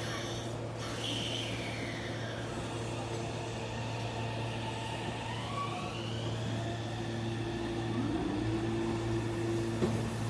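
Meitetsu electric train's motor whine at a station. A thin whine glides down in pitch over about four seconds, then rises again, over a steady low hum.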